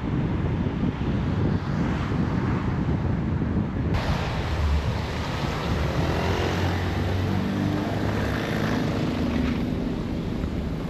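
A car on the move: steady low engine and road rumble with wind noise, and an engine note showing in the second half.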